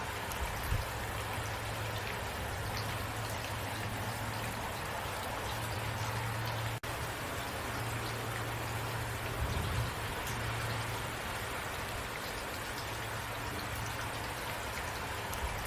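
Steady rain falling, with scattered drops ticking on a surface over a steady low hum. The sound cuts out for an instant about seven seconds in.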